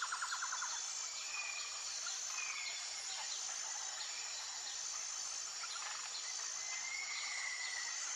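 Natural outdoor ambience: a steady high insect chorus with short chirps from birds or other small animals, and a fast pulsed trill that stops about a second in.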